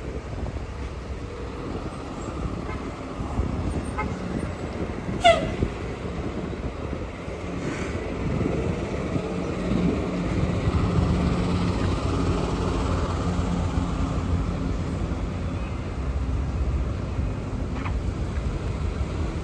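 Road traffic going by, with a heavy vehicle's engine droning past through the middle of the clip. A brief high squeal, falling in pitch, sounds about five seconds in.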